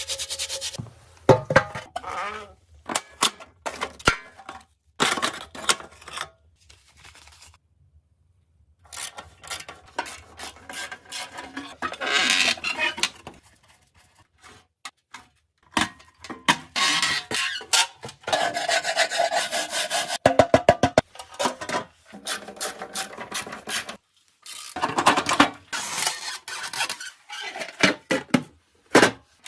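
Hand tools rubbing and scraping on rusty metal parts, in a string of separate short bursts with pauses between them. About two-thirds of the way through comes a quick run of short rasping strokes.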